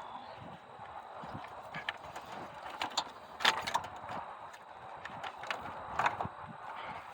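Scattered clicks and knocks as a wiring harness and its plastic connectors are handled and pushed into place in a car's engine bay, loudest about three and a half seconds in.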